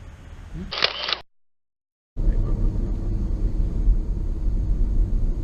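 A short hiss about a second in, then dead silence for about a second at an edit cut. After that comes a loud, steady low rumble of noise on the GoPro's microphone.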